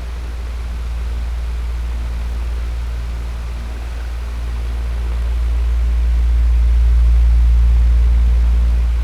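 Electric fan running steadily: a low motor hum under an even rush of air, swelling slowly louder toward the last few seconds.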